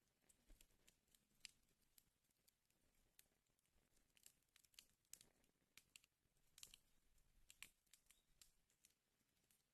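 Wood fire crackling in a fireplace: faint, irregular snaps and pops, several a second, over a soft hiss.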